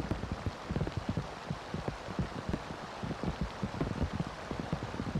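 Heavy rain pouring down over a marsh: a steady hiss with a dense, uneven run of low taps from drops striking close by.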